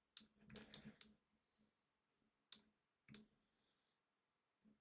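Faint, scattered clicks of a computer mouse and keyboard, a quick run of them in the first second, then single clicks at intervals.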